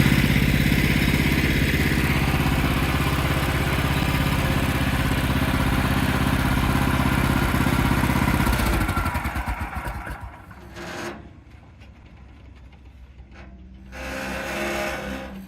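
Small gas engine of a Woodland Mills portable sawmill running steadily, then shut off about nine seconds in, its firing pulses slowing as it coasts to a stop. Quiet follows, with a faint brief sound near the end.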